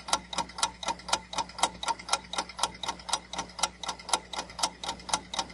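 Clock-ticking sound effect of a quiz countdown timer: fast, even ticks, about four a second.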